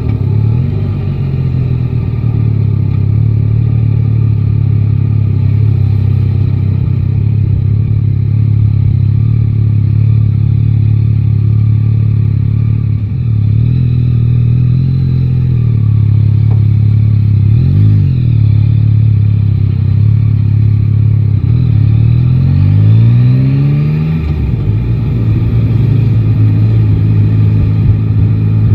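Three-cylinder motorcycle engine running under way, holding steady revs, with the revs dropping and coming back up twice about halfway through. Near the end the revs rise as it accelerates.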